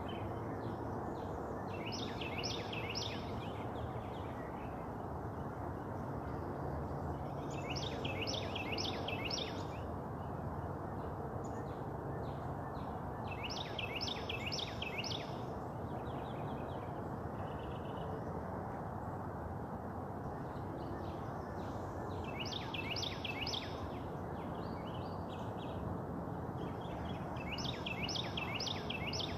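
A songbird singing a short phrase of about four quick, repeated notes, recurring about every five to six seconds, over a steady outdoor background hiss.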